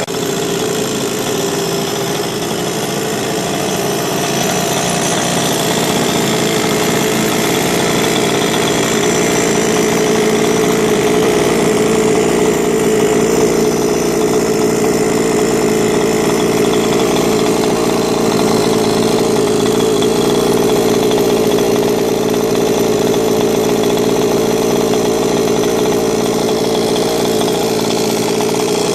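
Rovan 45cc two-stroke engine of an RC Baja buggy idling steadily through a Victory expansion pipe on a custom larger header, being run in on its first start.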